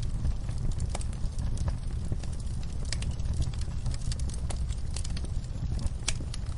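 Wood fire crackling in a fireplace: a steady low rumble of burning, with frequent irregular sharp pops and snaps.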